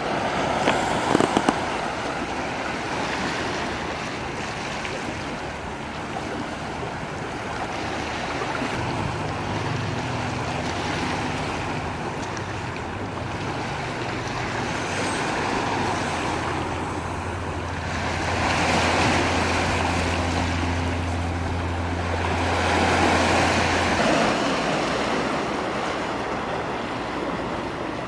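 Sea waves washing ashore in slow swells that rise and fall every few seconds. A low steady hum runs underneath through the middle part.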